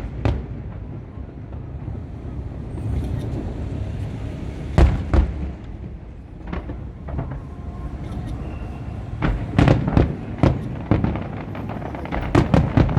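Aerial fireworks bursting: a few separate bangs about five seconds in, then a rapid run of bangs from about nine seconds on, over a steady low rumble.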